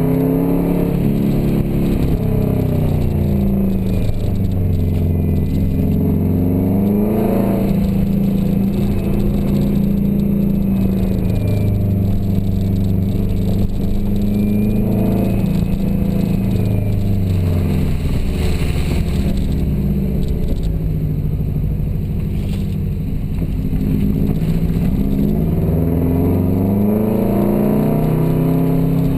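Subaru Forester XT's COBB-tuned turbocharged flat-four engine heard from inside the cabin while driven hard, the revs climbing and dropping back several times.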